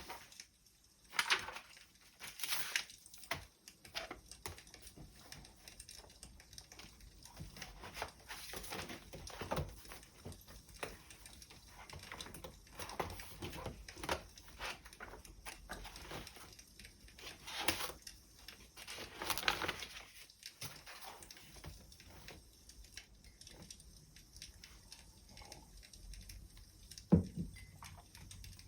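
Wood fire crackling, with irregular snaps and pops of varying loudness and a sharper pop near the end.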